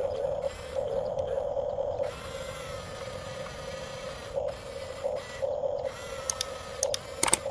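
Electric drive motors and gearboxes of a 1/14-scale Huina RC bulldozer whining in stop-start bursts as it is driven, with a few sharp clicks near the end.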